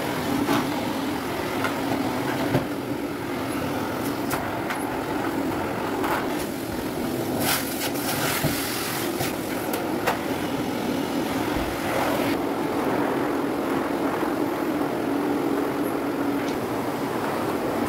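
Household vacuum cleaner running steadily, its motor humming under a hiss of suction, with occasional short clicks and knocks.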